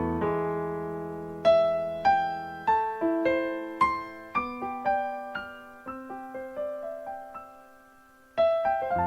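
Slow, gentle piano music: a held chord fading out, then single notes struck about twice a second, each dying away, and a fresh chord struck near the end.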